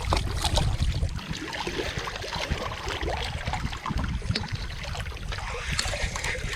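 Wind rumbling on the microphone over a light wash of water, with small scattered clicks.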